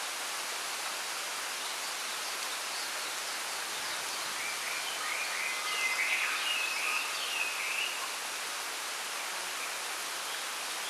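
Steady rustling hiss of wind through a bamboo grove, with a small songbird chirping and trilling in a short burst about four to eight seconds in.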